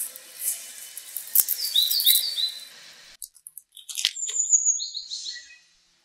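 Small birds chirping in short, high calls, with a couple of sharp clicks of a small kitchen knife against a wooden cutting board as garlic cloves are peeled.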